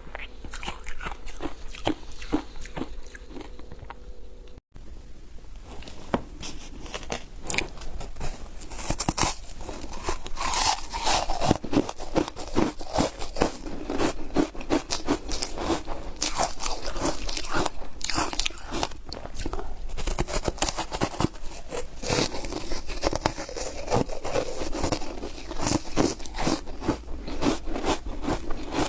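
Close-miked crunching and chewing of foam ice dusted with matcha powder: a dense run of crisp bites and crunches, with a split-second gap about five seconds in and louder crunches from about nine seconds on.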